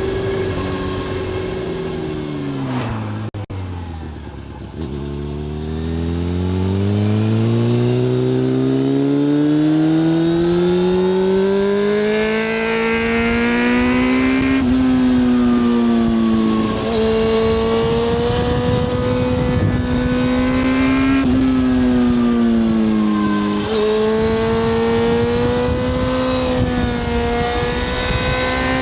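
Honda CBR600F F4i's inline-four through a MIVV slip-on exhaust with the dB-killer fitted, heard from the rider's seat. The revs fall over the first five seconds, then climb steadily for about nine seconds, and then hold at a cruising pitch with a few brief dips, under a steady wind rush.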